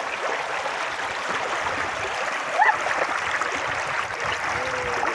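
Creek water running with a steady rush, and a short rising squeak about halfway through.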